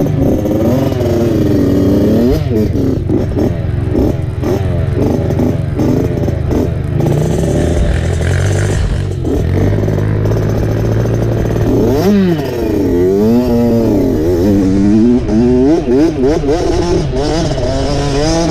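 Dirt bike engine revving up and falling back over and over as the throttle is worked, with some clattering.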